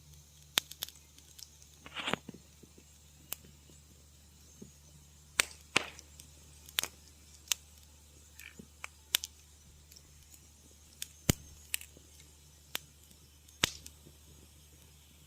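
Wood fire crackling in a fireplace: sharp, irregular pops and snaps, one or two a second, some much louder than others, over a faint low hum.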